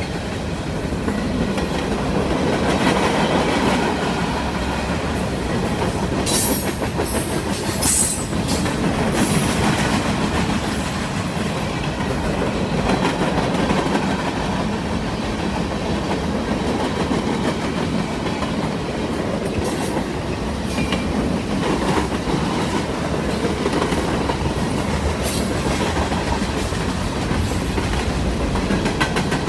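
Freight train cars rolling past: a steady rumble of steel wheels on the rails. A few brief sharp sounds stand out, twice about six to eight seconds in and once near the end.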